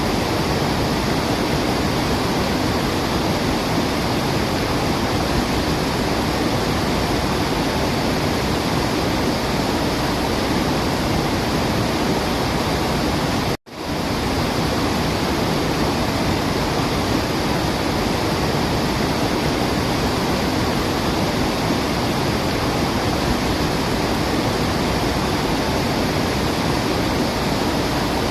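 Waterfall rushing steadily, an even wash of falling water with no birdsong standing out. About halfway through, the sound cuts out to silence for a split second and resumes.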